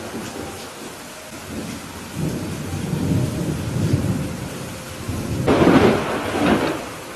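Steady rain with thunder: a low rumble builds about two seconds in, then a sharper, louder thunderclap breaks about five and a half seconds in and rolls away near the end.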